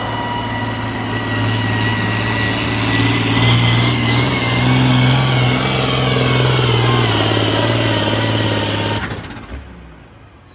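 Diesel engine of a pulling vehicle at full throttle under load during a hook, with steady high whines and a higher whistle that climbs during the first few seconds. It cuts off sharply about nine seconds in, as the run ends.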